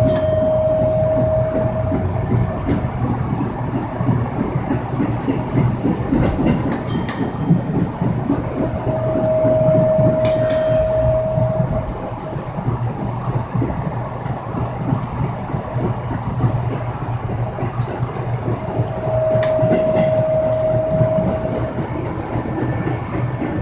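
Commuter subway train running on the rails, heard from inside the car: a steady rumble with occasional clicks of the wheels over rail joints. A held tone sounds three times, about ten seconds apart.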